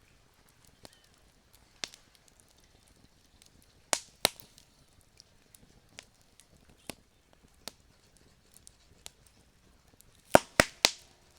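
Campfire crackling: scattered sharp pops and snaps of burning wood, louder twice about four seconds in and in a quick run of three loud pops near the end.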